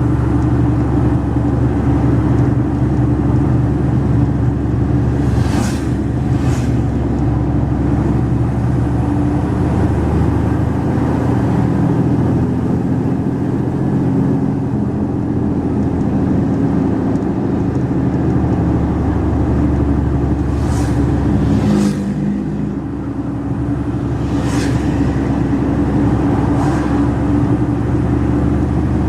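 Mercedes-Benz Actros 2546 truck's V6 diesel engine running steadily under way, its pitch shifting slightly, with a brief dip around two-thirds of the way through. Five short hissing bursts cut through: two near the first quarter, three near the three-quarter mark.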